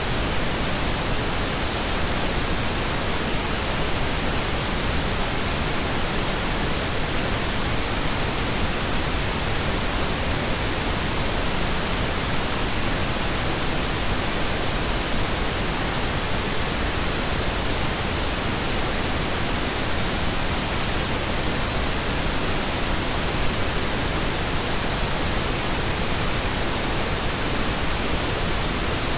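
Pink noise: a steady, even hiss across the whole range of pitch, with no change in level or character.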